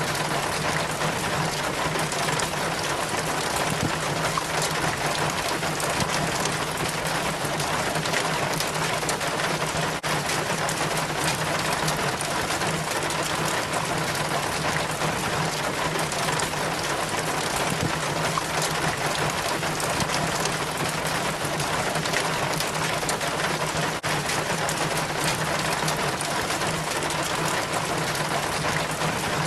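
Rainwater trickling and splashing down a rain chain hung in place of a downspout, a steady, even patter of many small drops.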